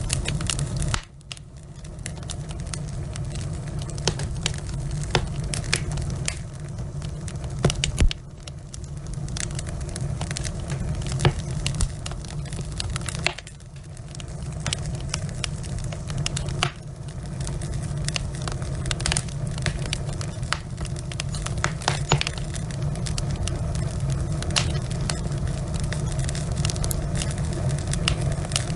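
Wood fire burning in a fireplace: logs crackling with frequent small clicks and an occasional louder pop, over a steady low rumble.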